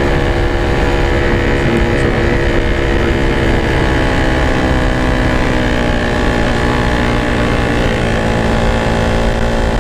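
Yamaha RX-King two-stroke single-cylinder motorcycle engine running under way at a fairly steady speed, through its packed standard exhaust.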